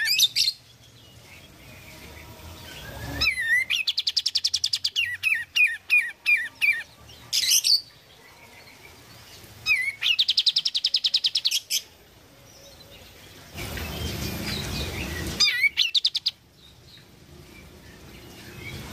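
Kapas tembak (olive-winged bulbul) song: several bursts of fast, rapidly repeated chattering notes, separated by short pauses. From about 13 s to 16 s a low rushing noise runs underneath.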